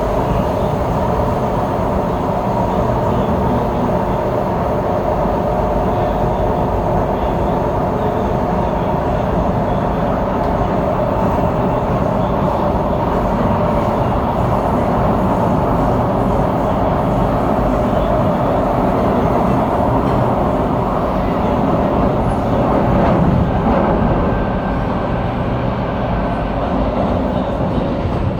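SMRT C751B metro train running between stations, heard from inside the car: a steady rumble of wheels and motors on the track. About three-quarters of the way through, the sound swells a little and a faint high whine holds for a few seconds.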